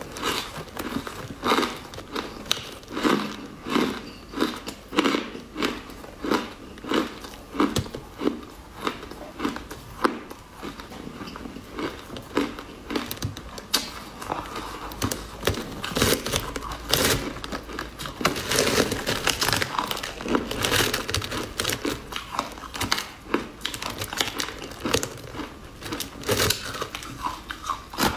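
Close-up mouth sounds of chewing and crunching a hard, crystalline purple sweet. Regular crunches come at about two a second at first, then turn to denser crackling and crinkling from about halfway.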